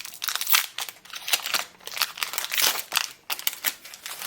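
A trading-card booster pack wrapper crinkling as it is opened by hand, in dense irregular crackles that stop near the end.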